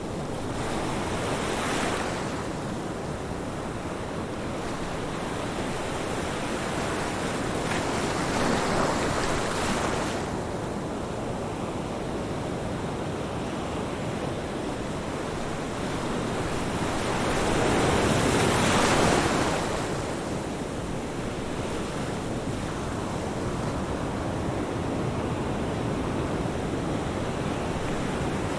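Ocean surf: a steady wash of waves, with three louder waves breaking and rushing in, the biggest a little past halfway.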